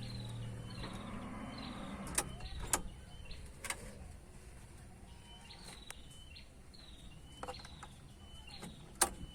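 A low hum that fades out over the first two seconds, then a few sharp, separate clicks or taps, the loudest about two seconds in and near the end. A bird chirps repeatedly in the background, short falling chirps about twice a second.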